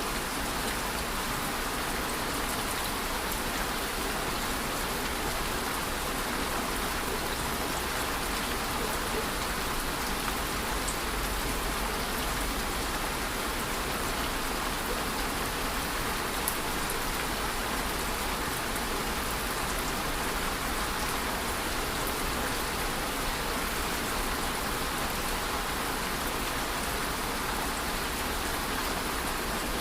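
Steady rain falling, an even hiss of many drops with a few separate drop ticks.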